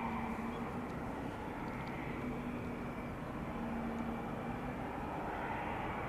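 Jet noise from an Airbus A350-941 airliner's Rolls-Royce Trent XWB turbofan engines: a steady rush with a few faint held hum tones running through it.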